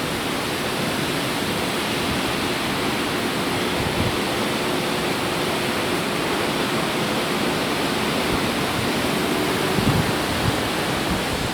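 Hurricane-force wind and rain as one steady, heavy rush of noise, with a few low thumps about ten seconds in.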